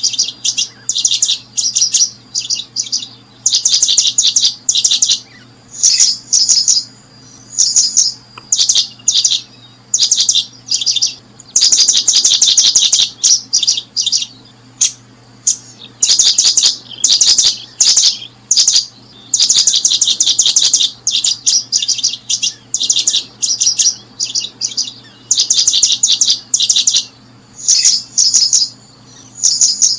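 Small birds chirping loudly in high, rapid chirp trains, short bursts coming again and again with brief gaps between them.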